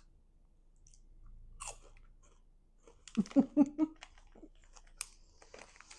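Close-up chewing and crunching of caramel-coated popcorn, with several short closed-mouth hums about halfway through.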